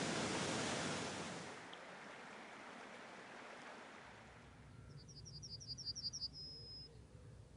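Rushing water that fades out over the first two seconds. About five seconds in, a small bird gives a quick run of about eight high notes ending in a short held note.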